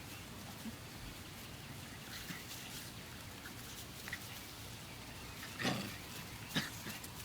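Doberman puppy and chihuahua play-fighting, with a few brief sounds from the dogs; the two loudest come about a second apart near the end.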